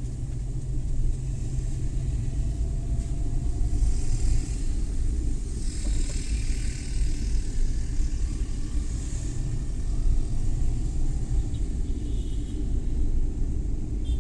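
Suzuki Every Wagon kei van driving, its engine and road noise making a steady low rumble, with a brief swell of higher hiss about six seconds in.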